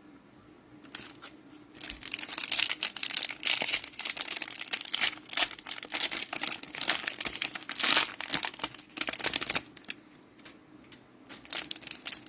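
Cellophane wrapper of a trading-card cello pack crinkling and tearing as it is opened, a dense crackle that starts about a second in, drops away for a moment near the end, then starts again.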